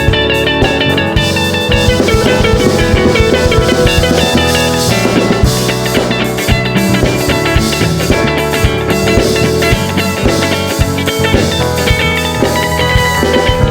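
A band playing an unrehearsed groove: electric guitar playing quick melodic lines over a drum kit, loud and continuous.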